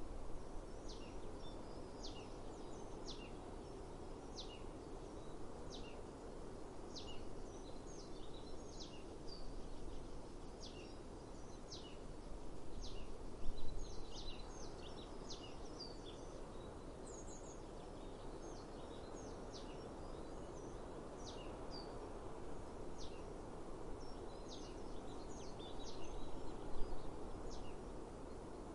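Small birds calling over and over in short, high chirps that drop steeply in pitch, roughly one a second, over a steady low rushing background of outdoor noise. A couple of brief louder moments come midway and near the end.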